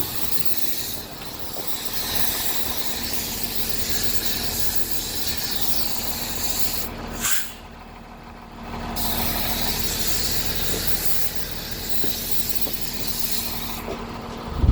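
A hose spraying water onto a fire truck, a loud steady hiss that cuts off about halfway through, starts again a couple of seconds later, and stops near the end. A steady low engine hum runs underneath.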